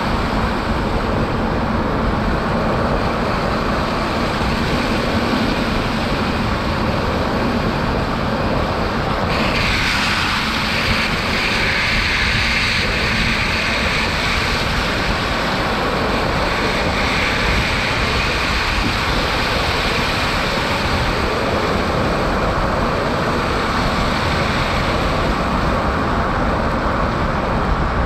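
Steady road and tyre noise from a Tesla Cybertruck, an electric truck with no engine sound, driving on a snow-covered highway. A brighter hiss joins in about nine seconds in and stays.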